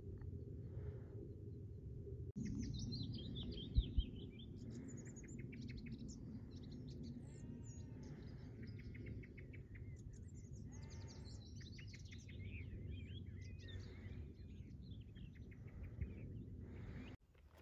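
Several small birds chirping and singing, with calls overlapping, over a steady low rumble.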